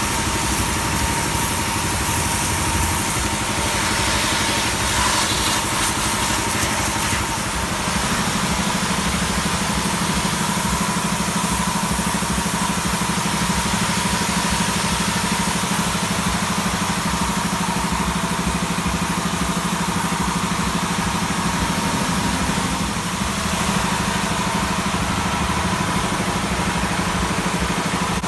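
Sanchin power sprayer machine running steadily, a constant mechanical hum over a hiss. About eight seconds in, its low hum grows stronger and stays so.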